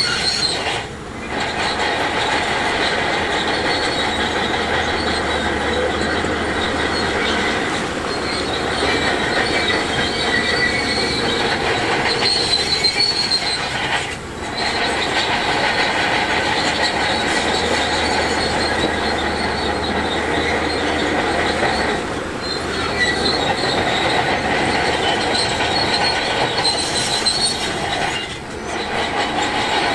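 Heavy earthmoving machinery working rock, with a steady diesel run and a high metallic squealing and clatter of the kind crawler tracks make; the sound dips briefly a few times.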